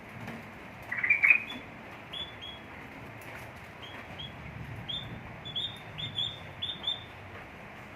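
White-headed munias giving short, high chirping calls, with a louder cluster of sharper calls about a second in and a quicker run of chirps near the end.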